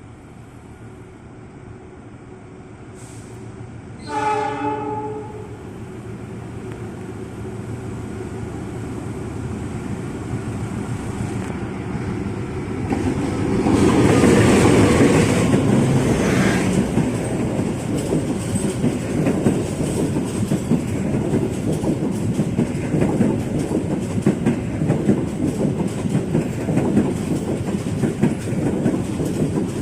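A train sounds its horn once, briefly, about four seconds in. Its rumble and wheel clatter then build up as it comes through, loudest around the middle, and carry on steadily as it passes close by.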